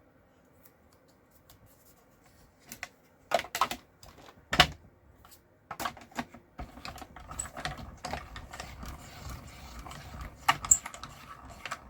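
Scattered sharp clicks and knocks of small craft tools and supplies being handled on a work surface. Two louder knocks come a few seconds in, and the clicking gets busier after that.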